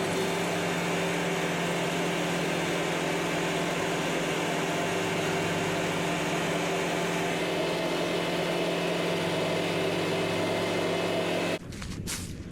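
Kubota MX5800HST tractor's four-cylinder diesel engine running steadily with the rotary brush cutter. It cuts off suddenly about a second before the end, and scattered knocks follow.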